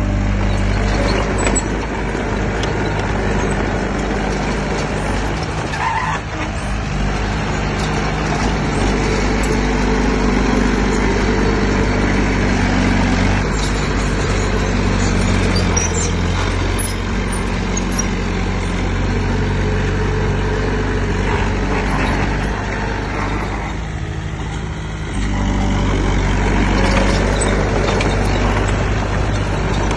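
Heavy diesel engine of earthmoving equipment running hard, its pitch rising and falling as it works. It eases off for about a second and a half near the three-quarter mark, then comes back up to full power.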